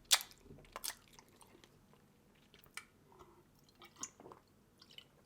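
Close-up eating sounds: wet chewing and lip smacks, with a few sharp clicks, the loudest about the first second.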